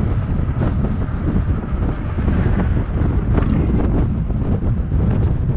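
Wind buffeting the microphone of a moving electric bike: a loud, steady low rumble.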